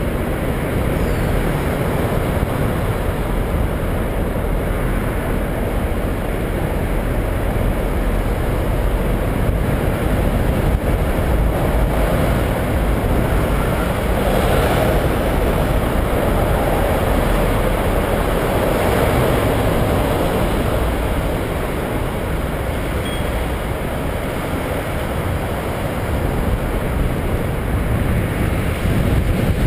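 Steady rushing noise of wind on the microphone of a bike-mounted camera while riding, a little stronger in the middle.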